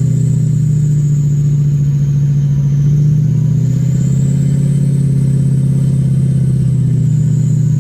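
Diesel pickup truck engine running steadily at low speed while crawling through snow, heard as a low pulsing drone with a thin high whine that rises slowly and falls back.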